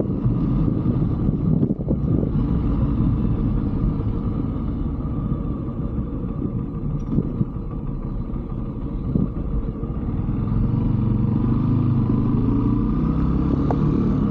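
125cc Brixton single-cylinder motorcycle running under way, with a low steady rumble. The engine eases off about five seconds in and picks up again about ten seconds in.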